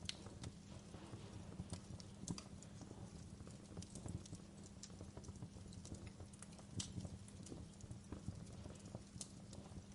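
Wood fire burning in a fireplace: irregular sharp crackles and pops from the logs over a low, steady rumble of the flames.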